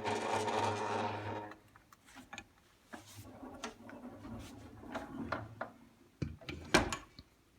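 Handling noises: a rough rattling rub for the first second and a half, then scattered light clicks and taps, with a sharper knock a little before the end.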